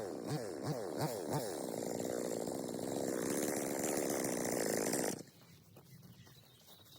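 Stihl chainsaw engine surging in quick repeated rises and falls of pitch, then running steadily, stopping abruptly about five seconds in.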